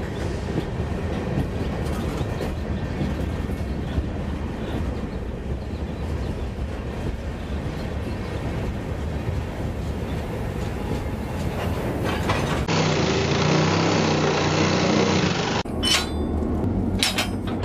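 Steady low rumble of a rolling vehicle, most like a rail car in motion. About two-thirds of the way through it changes abruptly to a louder, duller rumble with a wavering low tone, and a few sharp knocks come near the end.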